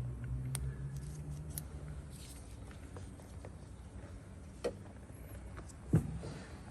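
Light clicks and taps of parts and tools being handled, with a dull knock about six seconds in and a smaller one shortly before it.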